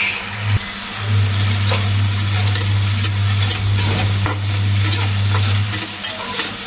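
Tomato-onion masala sizzling in hot oil in a non-stick pan as it is fried down, with a metal slotted spatula stirring and scraping across the pan in scattered strokes. A steady low hum runs underneath, breaking off briefly about half a second in.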